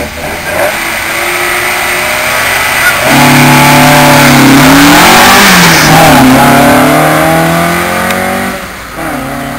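Alfa Romeo Giulia saloon's four-cylinder engine held at raised revs on the start line, then launched hard. It climbs in pitch, drops at a gear change about halfway through, and pulls up again.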